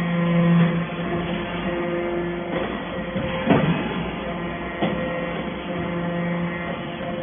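Hydraulic metal-shavings baler running: a steady pitched hum from its hydraulic power unit that drops and returns as the press cycles, with two sharp metallic clanks about three and a half and five seconds in.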